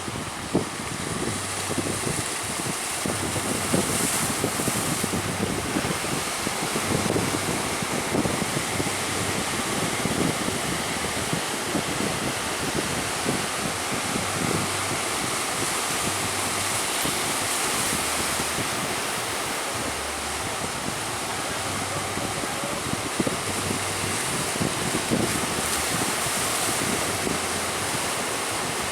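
Strong wind buffeting the microphone over the rush of sea waves, a steady loud noise with frequent short gusts.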